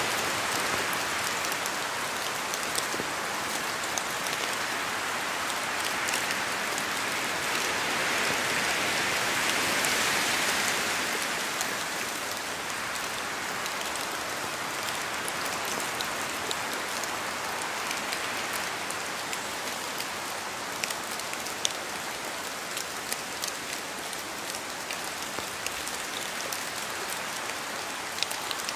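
Steady rain falling: a dense even hiss with many small drop ticks, swelling slightly about a third of the way in.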